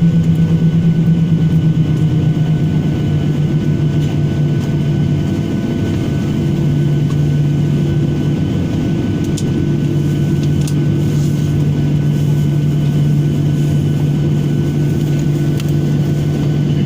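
Airliner's engines heard from inside the cabin, running with a steady low hum while the plane waits or taxis before takeoff; the pitch dips slightly a few seconds in and then holds steady.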